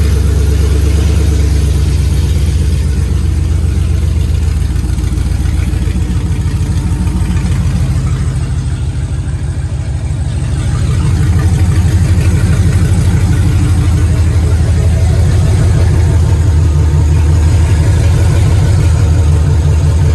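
Freshly swapped 6.0-litre V8 running on open headers with no exhaust fitted, a loud, steady low engine note. It eases off slightly about nine seconds in, then settles back a little louder.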